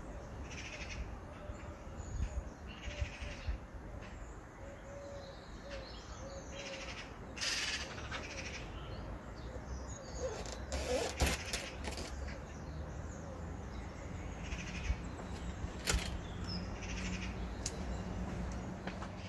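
Garden birds calling, with scattered clicks and knocks.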